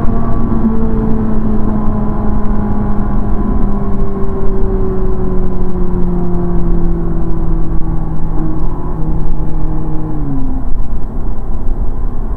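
Ferrari 458 Italia's 4.5-litre V8 heard from inside the cabin while cruising: a steady engine note that sinks slowly in pitch, over a constant low road and tyre rumble. About ten seconds in, the engine note dips and drops away.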